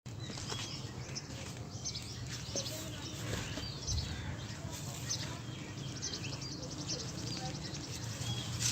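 Small birds chirping, many short high calls scattered throughout, over a low steady background hum.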